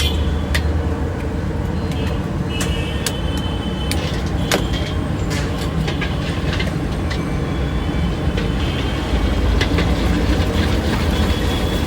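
Busy street-food stall noise: a steady low rumble with scattered sharp clacks and short high ringing tones.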